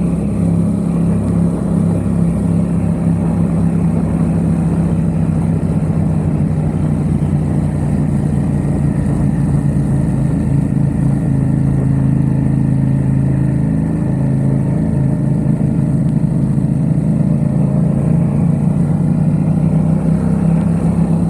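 Yamaha XSR700's 689 cc parallel-twin engine through an aftermarket Mivv exhaust, running at a steady cruise, heard from the rider's seat while riding.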